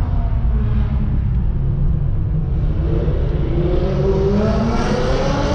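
Car engine rumbling, then revving up with a rising pitch from about three seconds in.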